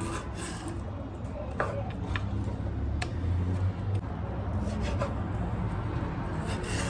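A few separate light knocks and clicks, as of things being handled and set down, over a low steady hum.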